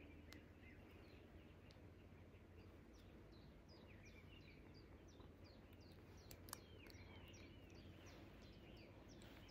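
Faint birdsong: a long run of short, high, falling chirps, a few a second, growing busier after a few seconds. A sharp click sounds about six and a half seconds in.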